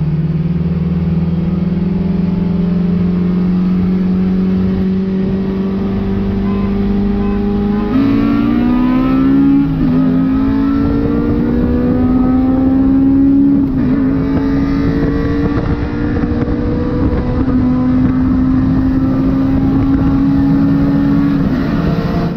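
K20A2-swapped Honda Civic's inline-four engine pulling hard under full throttle in a roll race, its pitch climbing slowly and steadily, with breaks about 8 and 14 seconds in and a fall-off just before the end as the throttle comes off.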